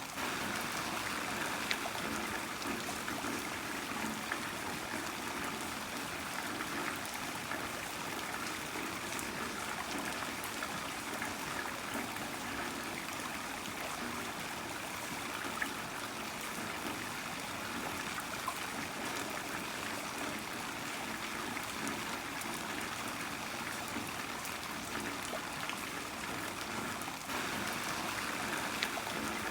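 Heavy rain falling steadily, with a running, trickling wash of water and scattered sharp drip clicks.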